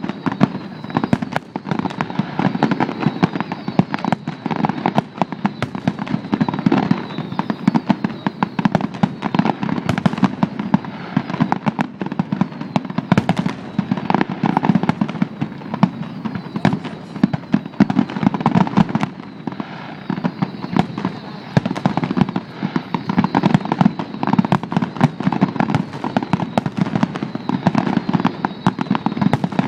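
Fireworks finale (traca final): a dense, unbroken barrage of bangs and crackling explosions, one on top of the next with no pause.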